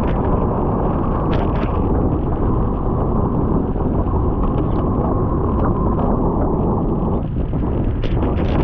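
Heavy wind noise buffeting the microphone of a camera riding on a bicycle at speed, with scattered light clicks and ticks.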